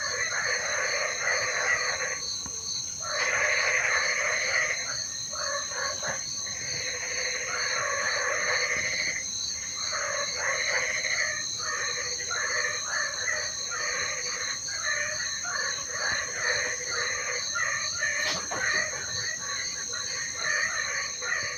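A chorus of frogs croaking, coming in dense waves with short lulls of about a second between them, over steady high-pitched insect trills.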